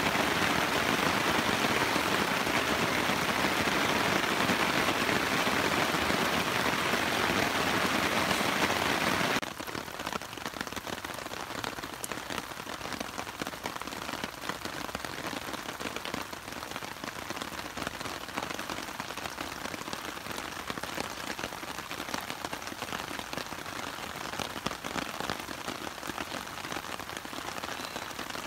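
Steady rain falling, an even hiss that drops abruptly to a quieter level about nine seconds in.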